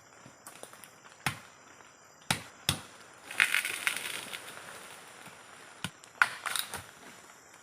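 Brush being cut and broken: several sharp woody knocks spread over the stretch, and a crunching rustle of branches and leaves for about a second midway.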